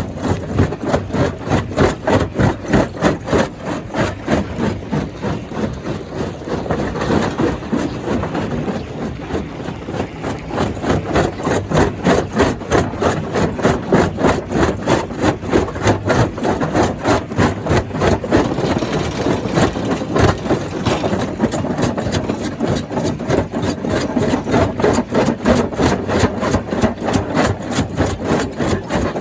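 Stone crusher machine running with a steady, rapid rhythmic pulsing, about three to four beats a second.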